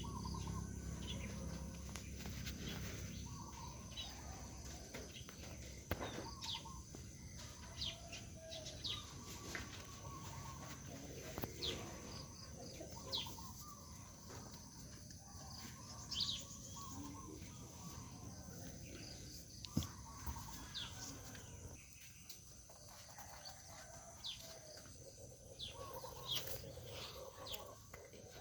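Birds calling outdoors: many short chirps, a few every couple of seconds, over a steady high-pitched tone.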